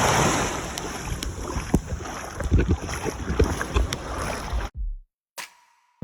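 Jet ski running at speed over open ocean: heavy wind buffeting the microphone with repeated slaps and knocks from hitting the chop. It cuts off suddenly near the end.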